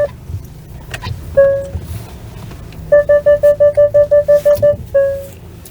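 Car parking-sensor warning beeping during parking: a single beep, then a fast run of beeps near the middle and another beep near the end, the quickening beeps signalling an obstacle close behind the car. A low engine hum runs underneath.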